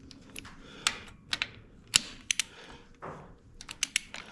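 Hand ratchet clicking while working a bolt: sharp, irregular metallic clicks, a few a second, some in quick pairs.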